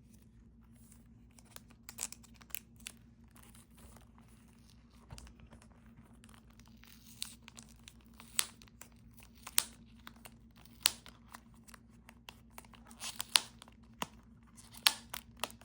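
Plastic shrink-wrap on a CD album being picked at and peeled open, giving scattered sharp crinkles and crackles that come more often in the second half. A faint steady hum runs underneath.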